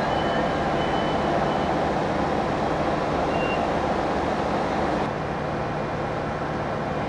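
Siemens Desiro diesel multiple unit pulling slowly into the platform, its diesel engines running with a steady low drone, and a few brief faint high brake squeals in the first few seconds. The sound eases slightly about five seconds in as the train comes to a stop.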